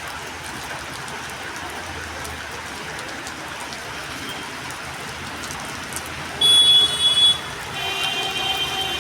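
Heavy rain falling, a steady hiss. About six and a half seconds in, a loud high-pitched tone sounds twice briefly. Near the end a longer, lower tone with several pitches starts and holds.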